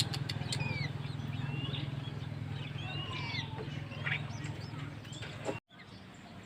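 Small birds chirping: scattered short whistled calls that rise and fall, over a steady low hum that cuts off abruptly about five and a half seconds in.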